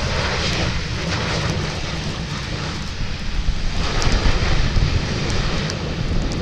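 Airliner engines rumbling, a little louder about two-thirds of the way through, with a gusty low rumble of wind on the microphone.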